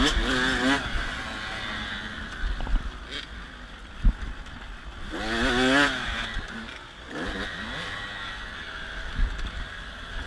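Motocross dirt bike engine revving, its pitch rising and falling quickly as the throttle is worked. It is loudest at the start and again about five to six seconds in, and quieter in between, with a low rumble of wind and a few knocks.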